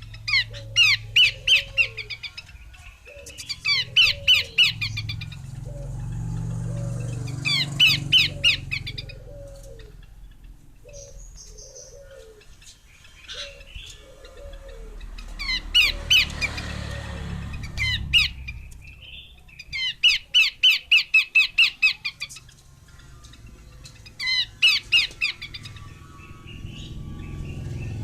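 Female Abbott's babbler calling: bursts of fast, high chattering notes, each a second or two long, repeated six times with pauses between. A soft low note repeats steadily behind it through the first half.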